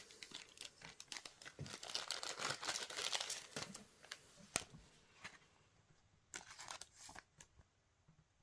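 A trading-card booster pack wrapper being torn open and crinkled in the hands: a dense run of crackling and tearing for about four seconds, a sharp click, then a shorter burst of crinkling near the end.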